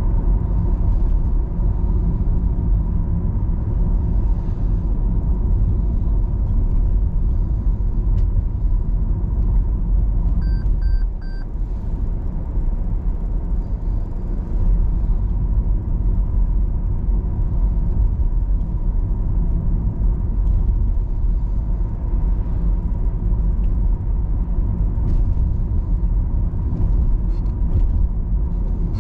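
Car driving on city roads: steady low road and engine noise, with three short high-pitched beeps about ten and a half seconds in.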